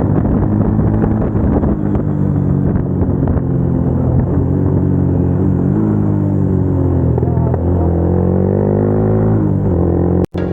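Suzuki Gixxer 250 single-cylinder motorcycle engine running under way, a steady loud engine note whose pitch dips and then climbs again about two-thirds of the way through as the throttle is eased and reopened.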